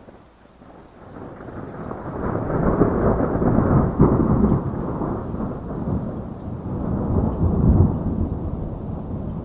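Rolling thunder that swells up over the first couple of seconds and rumbles on through the rest, loudest around the middle, over steady rain.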